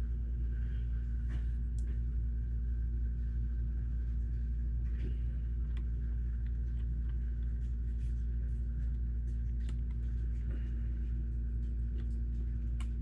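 Steady low hum with a faint constant tone, and scattered light clicks of plastic Lego bricks being handled and sorted.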